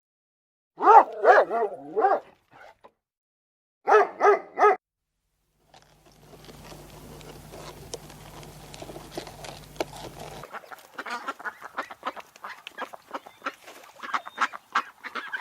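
Animal calls: a quick run of short pitched calls about a second in and another run of four about four seconds in, then a busier stretch of many short calls and clicks over a hissy background.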